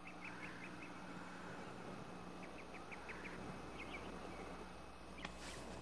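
Faint outdoor ambience with a bird chirping: two quick runs of short high notes, about six each, and a couple more about four seconds in, over a low hiss.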